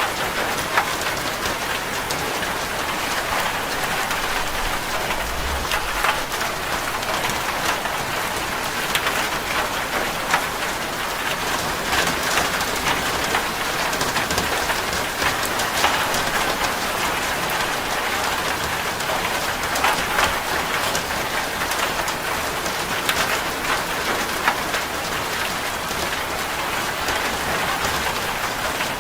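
Steady rain falling on a corrugated zinc roof: a dense, even rush of rain with many sharp individual drop strikes on the metal.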